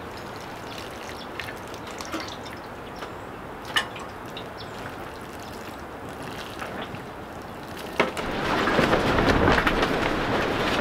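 Strong wind rattling a small cattle-panel greenhouse, a steady rattle with scattered clicks. About eight seconds in there is a sharp knock, and a gust makes the rattle and wind much louder.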